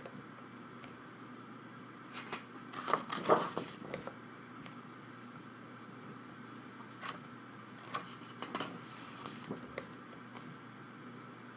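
Pages of a thick, heavy-papered photobook being turned and handled: a handful of soft paper rustles and scrapes, the loudest about three seconds in.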